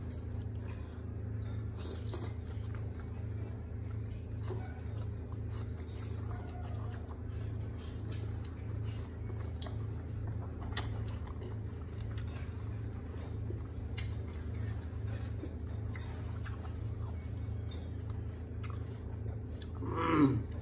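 A person chewing boiled octopus, with small wet mouth clicks and smacks scattered throughout, one sharper click about eleven seconds in, over a steady low hum. A brief louder sound with a gliding pitch comes just before the end.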